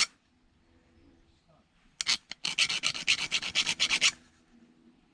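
Quiet for the first two seconds, then a click and a quick run of rasping, scraping strokes of a hand tool working on a metal scrap part, stopping short of the end.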